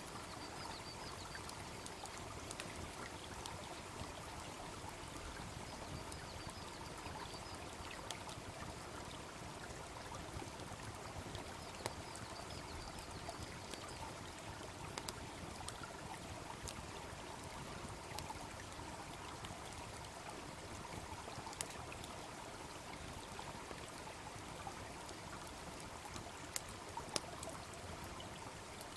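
A wood fire crackling, with scattered sharp pops (the loudest about midway and a few near the end), over the steady rushing of a babbling brook.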